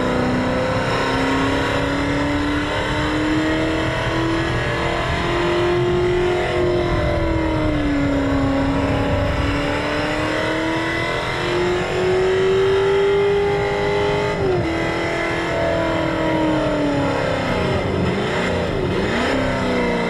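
Artificial Ferrari-style engine sound from a sound generator fitted to a Renault Fluence Z.E. electric car, an engine note whose pitch rises and falls several times, dropping sharply about two-thirds of the way through.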